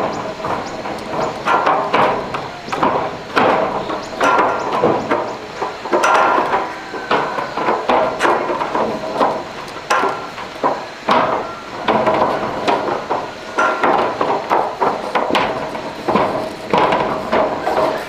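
Hammer blows struck repeatedly at an uneven pace, about one to two a second, with a ringing tone carrying between the strikes.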